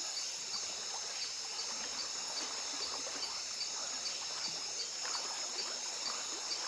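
Night rainforest insect chorus: a steady high-pitched drone with a regular chirp about two or three times a second, over light splashing and trickling of shallow water.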